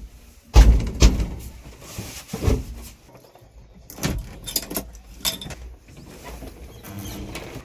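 Heavy machinery working: a run of irregular clunks and knocks over a low engine rumble, the loudest about half a second to a second in.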